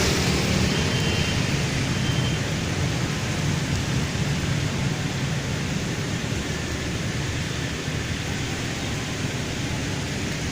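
Steady hiss of rain mixed with traffic passing on a wet road, tyres swishing through water.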